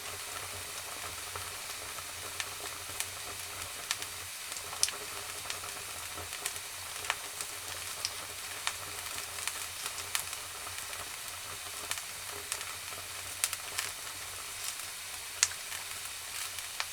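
Wood fire crackling in a fireplace: a steady hiss with irregular sharp pops and snaps.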